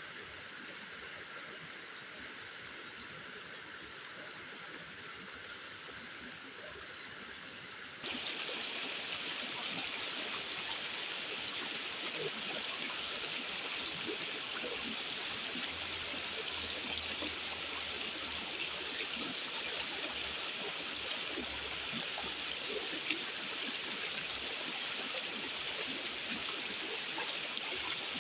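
Steady rushing water noise. It jumps abruptly louder about eight seconds in and then holds steady.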